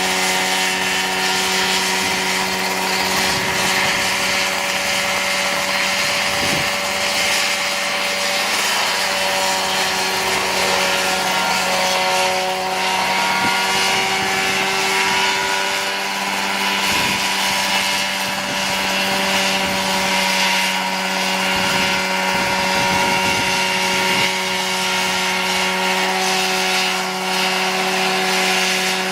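Engine of a homemade Mosquito-style ultralight helicopter running steadily at a constant speed, its pitch holding level throughout.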